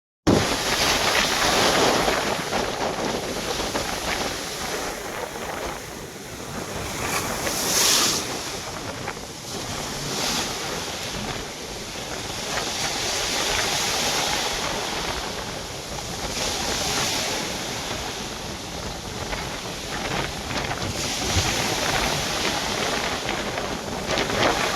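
Sea waves washing, with wind buffeting the microphone; the noise swells and eases every few seconds.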